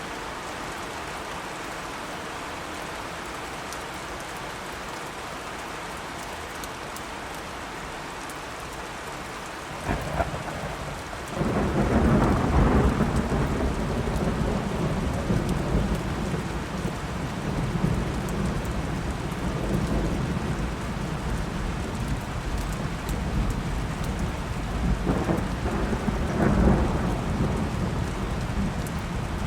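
Steady rain falling, then a thunderclap about a third of the way in that opens into a long, heavy rumble of thunder, which swells again near the end over the continuing rain.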